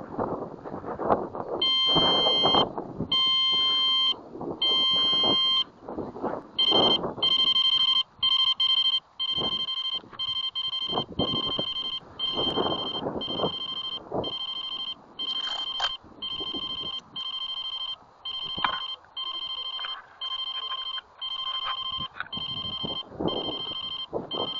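An electronic beeper sounding three long beeps, then a rapid, even run of short beeps, about two a second, with gusts of wind and handling noise on the microphone underneath.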